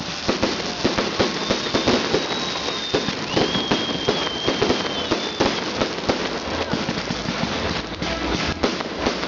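Salute fireworks going off in quick, irregular succession, a continuous stream of bangs and crackle. A high, steady whistle is held for several seconds in the middle.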